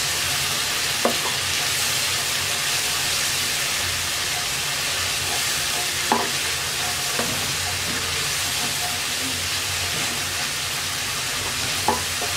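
Onion and spice masala frying in oil in a wok with a steady sizzle, as it is cooked down. A wooden spatula stirring it knocks against the pan a few times.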